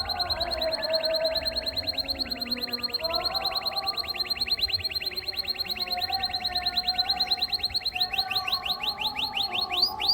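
Domestic canary singing a long, unbroken trill of quick rising notes, about ten a second, over a fainter lower warble. Near the end the trill slows into wider sweeping notes.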